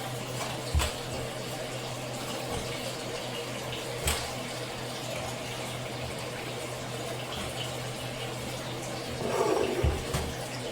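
Steady rush of water with a low hum underneath. A few light knocks come through it, with a louder clatter near the end.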